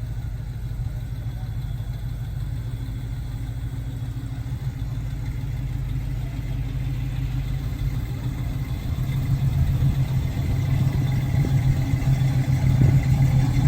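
A car engine running at a low, steady idle, growing louder in the second half as it comes closer or is held nearer.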